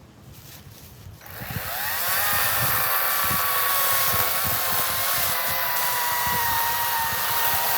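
EGO 56-volt battery chainsaw with an 18-inch bar: the electric motor spins up with a rising whine about a second in, then runs steadily at high speed, its pitch sagging slightly as it cuts into a cherry log.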